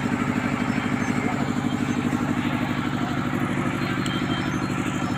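Large horeg sound system putting out a loud, steady, low bass drone that throbs with a rapid, even pulse.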